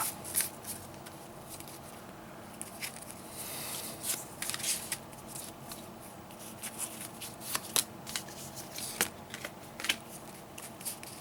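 Trading cards being handled and sorted by hand: a string of light snaps and taps as cards are flicked and laid down, with a longer sliding rustle about three seconds in.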